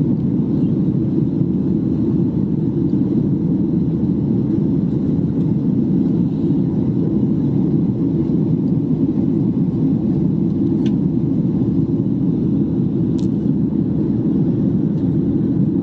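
Airliner in flight heard from inside the passenger cabin: a steady low drone of engine and airflow noise.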